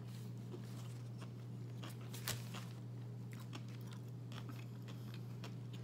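A person chewing a mouthful of plant-based burger (Impossible Whopper): faint wet clicks and crunches of the bun and patty, with one louder click about two seconds in, over a steady low hum.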